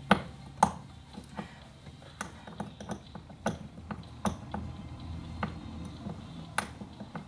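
Irregular small clicks and taps of parts being handled while a spring is stretched onto a Husqvarna 240 chainsaw's oil pump drive, with the two sharpest clicks in the first second.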